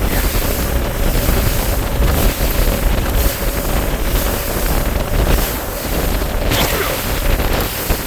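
Bass boat under way: a steady outboard motor tone under heavy wind buffeting the microphone and rushing water.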